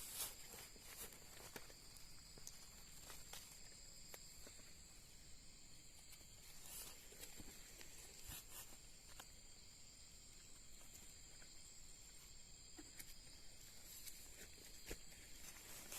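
Faint steady high-pitched drone of insects, with scattered crackles and snaps of footsteps on dry leaves and twigs.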